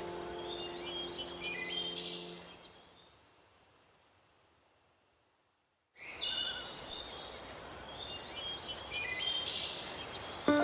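Small songbirds chirping and singing over a soft held music chord; both fade away about two and a half seconds in to near silence. About six seconds in the birdsong cuts back in abruptly over a steady outdoor hiss, and a new held chord starts near the end.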